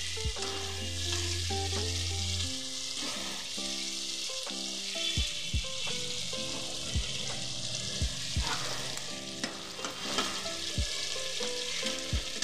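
Spice paste with potatoes and flat beans sizzling in mustard oil in a non-stick kadai as it is stirred and turned with a metal spatula, with a few knocks of the spatula on the pan. Soft background music plays underneath.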